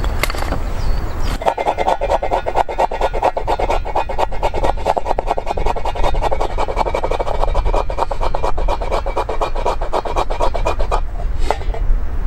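Hand saw cutting through wood in rapid, steady strokes, starting about a second and a half in and stopping about eleven seconds in.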